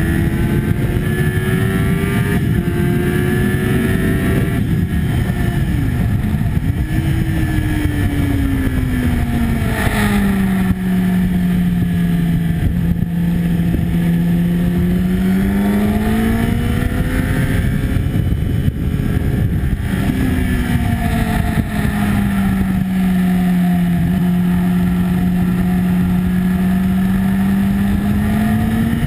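Sport motorcycle engine at racing speed heard from onboard, under heavy wind rush. The engine note climbs and steps down through a gear change about two seconds in, then falls away as the bike slows for a corner around ten seconds in, rises again, and drops once more about twenty seconds in before climbing near the end.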